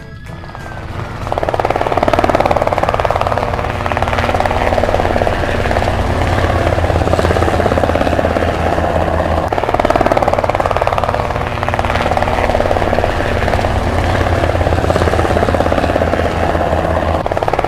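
Helicopter sound effect: fast rotor chop over a steady engine drone, starting about a second in and continuing unbroken.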